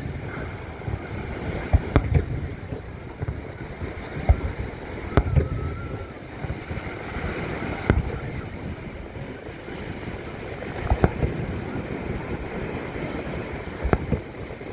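Fireworks shells bursting: about ten sharp booms at uneven intervals, some in quick pairs, over a steady rushing noise of wind on the microphone.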